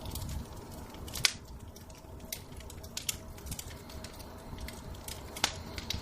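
Wood fire in a fireplace crackling, with sharp pops at irregular intervals, the loudest about a second in and again near the end, over a low steady rumble.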